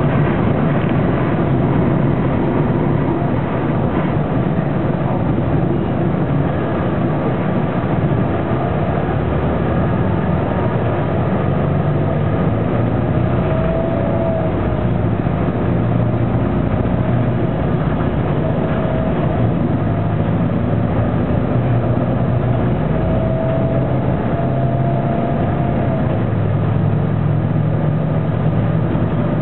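Detroit Diesel Series 50 four-cylinder diesel of an articulated transit bus running under way, heard inside the passenger cabin, its note changing every few seconds as the bus speeds up and slows. A faint whine rises and falls now and then.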